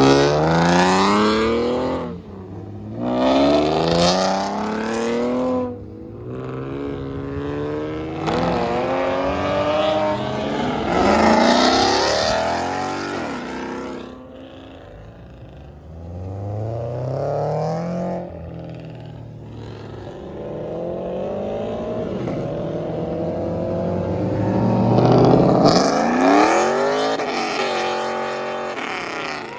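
Cars accelerating hard one after another, each engine's note climbing steeply in pitch for a few seconds and then breaking off, about six pulls in all.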